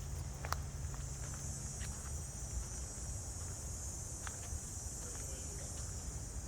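Steady high-pitched chorus of crickets, with a few light clicks of footsteps and a low rumble underneath.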